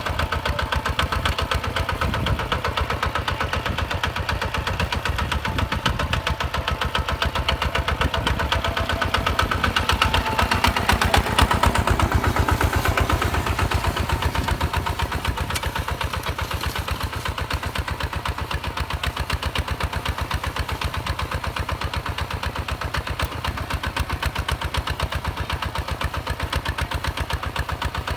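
Hinota HG Gold 155 DI tractor's direct-injection diesel engine running with an even, rapid firing beat. About ten seconds in it picks up briefly and grows louder, then settles back to a steady run.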